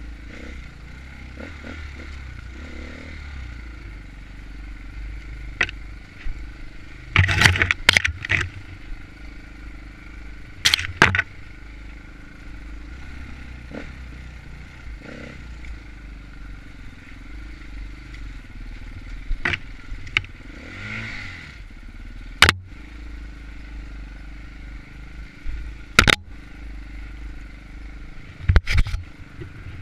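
Enduro dirt bike engine running steadily over a trail, with sharp knocks and clatter every few seconds, several in quick succession.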